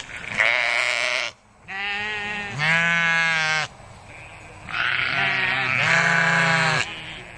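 Farm animals bleating: about five long, wavering bleats of roughly a second each, mostly in back-to-back pairs.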